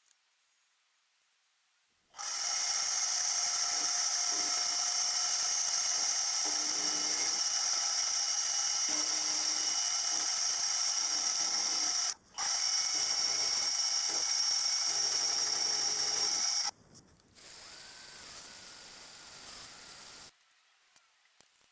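A small metalworking machine tool running steadily with a high whine, broken off briefly a little past the middle. After it stops, a quieter, higher-pitched running sound follows for a few seconds.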